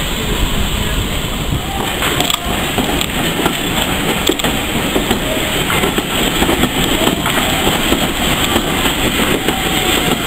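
Passenger coaches rolling past close by with a steady rumble, their wheels clicking over the rail joints from about two seconds in.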